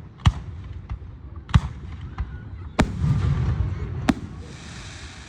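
Fireworks going off: four loud bangs about every 1.3 seconds, with fainter pops between them. A hissing crackle follows the later bangs.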